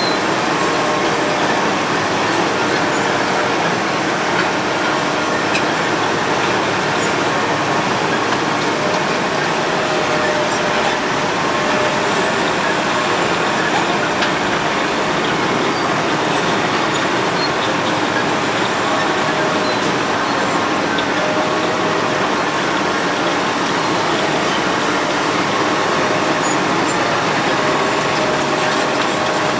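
Road planer (cold milling machine) at work milling off the road surface: a loud, steady, dense machine noise with faint steady tones over it.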